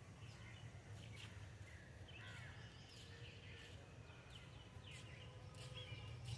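Faint outdoor background: a few small bird chirps over a low steady rumble.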